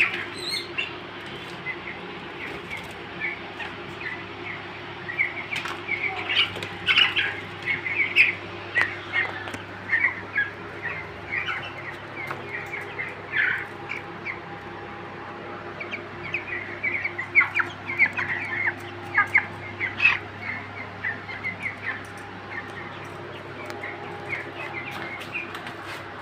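A flock of about fifty 18-day-old chickens in a battery cage, cheeping and peeping in many short high calls, with a steady low hum beneath.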